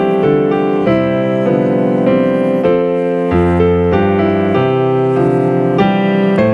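Piano or keyboard playing music in held chords, the notes changing every half second or so.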